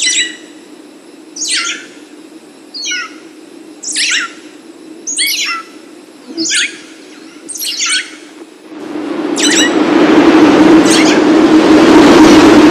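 Birds chirping: short falling chirps about once a second over a steady low hum. About nine seconds in, a loud rushing noise swells up and drowns them out.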